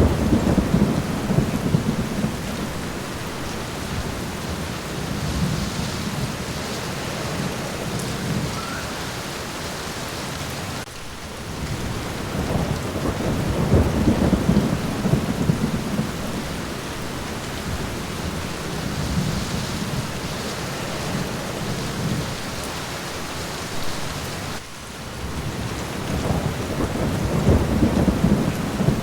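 Steady rain pattering on a window, with rolling thunder swelling three times: near the start, midway and near the end.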